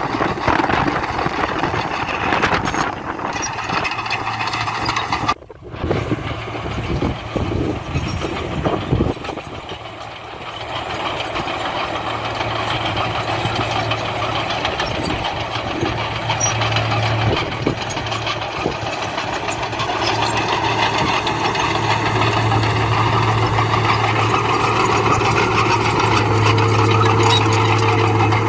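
Diesel engines of heavy earthmoving machinery running, with a brief drop-out about five seconds in; from about twelve seconds on a steady low engine hum comes in and grows louder toward the end.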